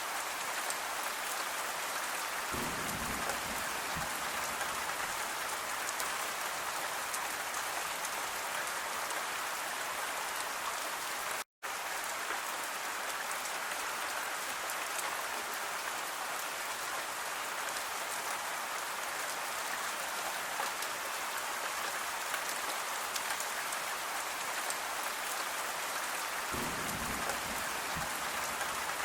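Steady gentle rain, an even hiss with fine pattering drops. The sound cuts out completely for an instant about a third of the way in, then resumes unchanged.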